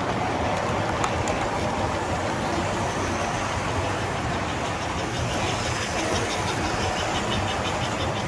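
Model train running on the layout: a steady mechanical running noise, with a quick, even run of ticks in the second half.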